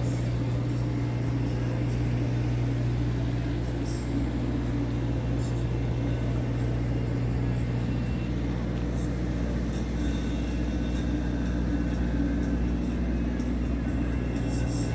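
Steady low mechanical hum at an even pitch, with a few faint ticks above it.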